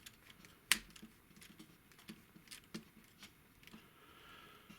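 Small clicks and ticks of a screwdriver driving screws into a plastic toy figure's hip assembly, with one sharper click about three-quarters of a second in.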